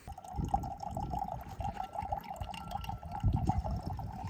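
Water running and trickling steadily, with an uneven low rumble underneath.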